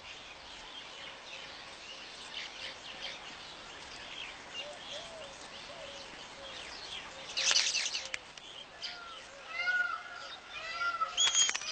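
Weaver birds chattering: soft chirps and short arched notes, then a harsh rasping burst about seven seconds in, followed by a quick run of repeated arched chirps with another rasp near the end.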